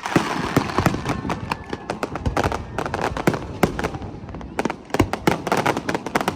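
Fireworks going off: a rapid, irregular string of sharp bangs and crackles, with a brief lull about four seconds in.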